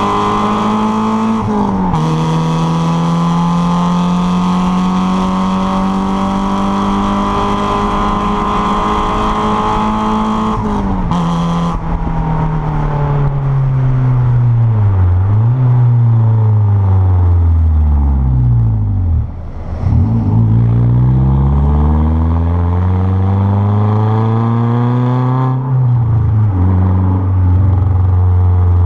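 Renault Clio 1.6 16v K4M inline-four running through a straight 2-inch exhaust: revs held steady at a high pitch for about ten seconds with two brief dips, then falling, climbing and falling again several times before settling at a lower, steady note.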